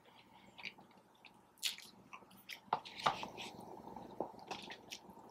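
A person quietly chewing a sandwich: soft, wet mouth sounds and small scattered clicks.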